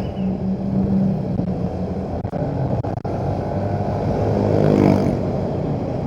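Motorcycle engine running in slow traffic, with road and wind noise. The engine note swells about four to five seconds in.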